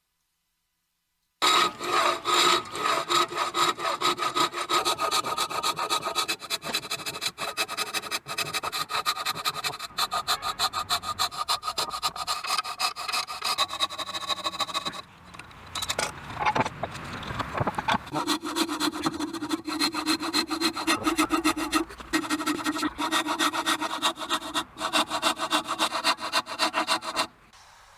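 Saw cutting through wood in a long run of quick strokes, starting about a second and a half in. The strokes pause briefly a little past halfway and stop shortly before the end.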